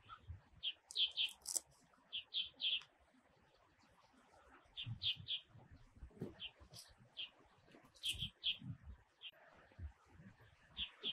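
Bird calling with short, high chirps, singly and in quick runs of two or three, with a few soft low thumps between them.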